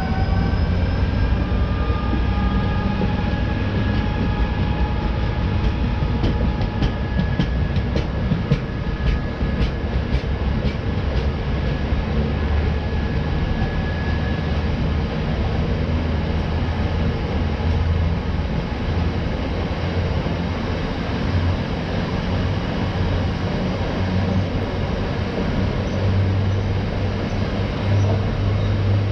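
Freight train passing through the station: high tones glide down in pitch in the first few seconds as the head of the train goes by, then a steady heavy rumble of rolling wagons, with a run of sharp clicks from wheels over rail joints several seconds in.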